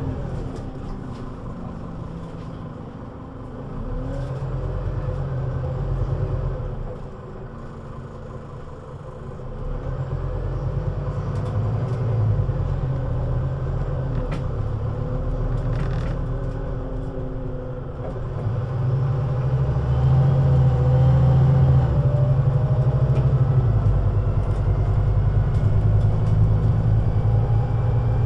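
Scania CN320UA articulated city bus engine, a 320 hp nine-litre five-cylinder diesel, running under way. It pulls harder and eases off several times, with pitch gliding up and down as it speeds up and changes gear. It runs at its loudest and most steadily through the last third.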